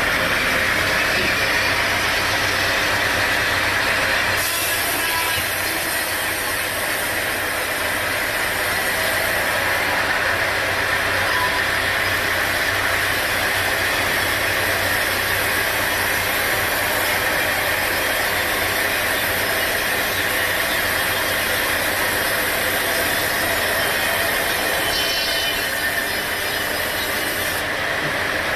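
Sawmill machinery running: a steady, loud hiss over a low motor hum, typical of a saw blade cutting through timber. A higher hiss joins about four seconds in and drops away near the end.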